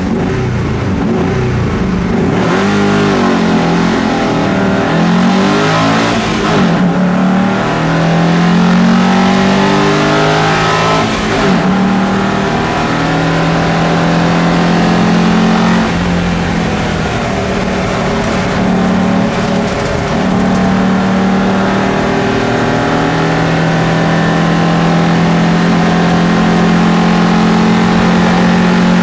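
Alfa Romeo Alfasud Sprint's flat-four engine at racing speed, heard from inside the cockpit, revving up and dropping back with each gear change. In the second half the engine note holds high and steadier.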